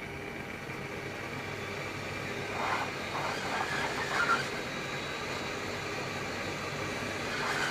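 Hot air station blowing steadily: a hiss with a thin high whine, used to shrink heat-shrink sleeving over a soldered wire. A few light crackles and rustles of handling come a few seconds in.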